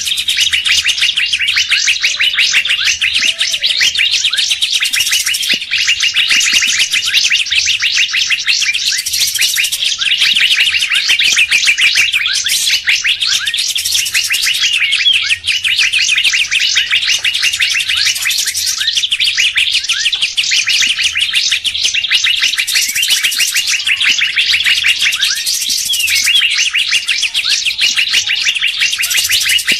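Dense, continuous rapid chirping and twittering of songbirds, a bird-lure (pikat) recording played to draw wild birds in, with brighter high-pitched flourishes every few seconds.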